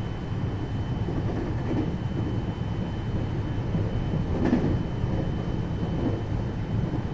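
Interior running noise of a 521 series electric multiple unit, heard inside the motor car: a steady rumble of wheels on rail while the train runs between stations. A thin, steady high tone sits above the rumble, and there is a brief louder noise about four and a half seconds in.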